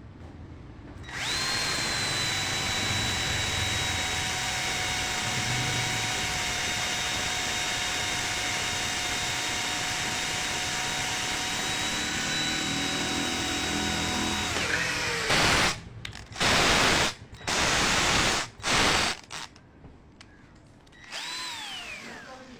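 Ken 12V cordless drill driver fitted with a size 10 drill bit, running at a steady pitch for about thirteen seconds and then winding down. Four short, loud rasping bursts follow. Near the end comes a brief spin-up that quickly falls away in pitch.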